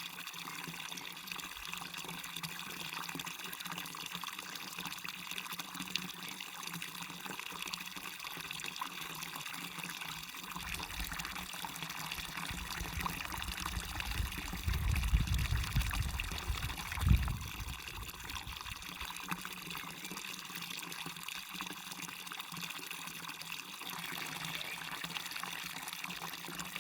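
Small waterfall and stream running with a steady splashing hiss. A little past halfway a low rumble swells for a couple of seconds and ends in a brief thump.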